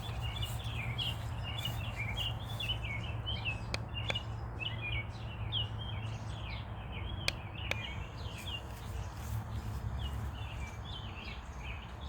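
Many small birds chirping continuously in quick, overlapping short chirps, over a steady low rumble, with a few sharp clicks about four seconds in and again past seven seconds.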